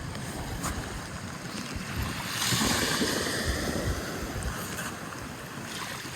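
Sea waves washing onto the shore, one wave surging loudest a couple of seconds in and then fading, with wind rumbling on the microphone.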